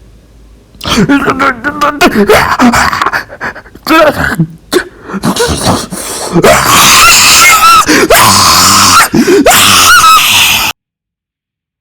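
A voice yelling and screaming very loudly and distorted, in broken bursts at first and then one long loud scream from about halfway, cutting off abruptly about a second before the end.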